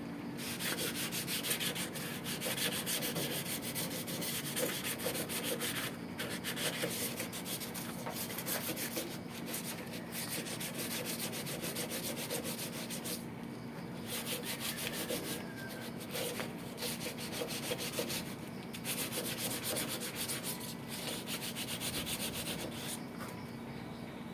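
Abrasive paper rubbed by hand back and forth over the rusted sheet metal of an exhaust hood in quick scratchy strokes, in several passes with short pauses between.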